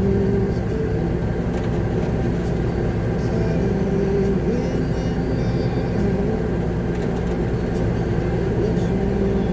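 Concrete mixer truck's diesel engine running steadily, heard from inside the cab as the truck moves slowly, its pitch drifting a little.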